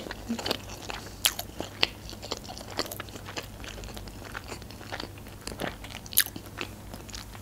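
A person chewing a mouthful of sushi roll close to the microphone: irregular wet mouth clicks and small crunches, with no words.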